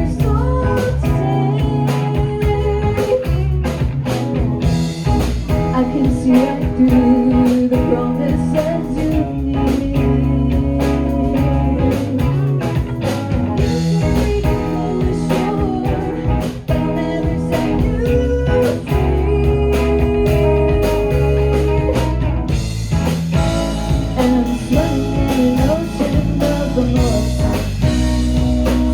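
A rock band playing live: electric guitar, bass and drums keeping a steady beat, with a voice singing over them.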